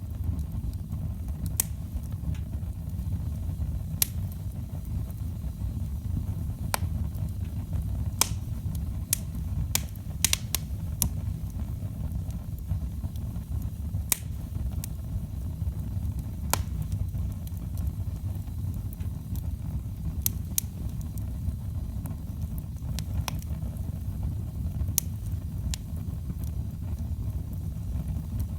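Wood fire burning in a fireplace: a steady low rumble of the flames with sharp, irregular crackles and pops from the firewood.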